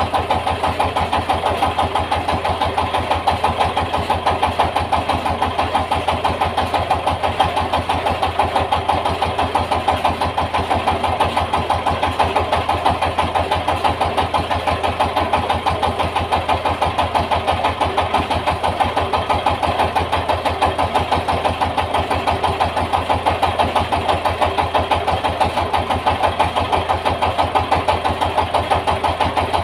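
Yanmar TS 230 single-cylinder diesel engine running steadily while driving a rice mill, with an even, rapid beat that does not change.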